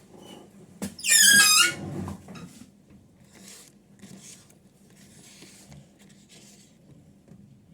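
A loud, high-pitched squeak about a second in, lasting under a second and stepping down in pitch, followed by faint rustling.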